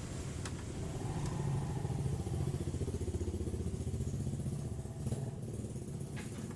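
A small engine running with a steady, rapid pulse, swelling a little in the middle, with a few brief clicks.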